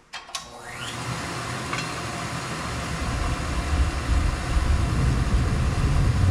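Diesel burner of a steam pressure washer starting up, now fitted with a small 0.65 fuel nozzle: a couple of clicks, the blower motor spinning up with a rising whine, then the burner lighting with a low rumble that grows steadily louder.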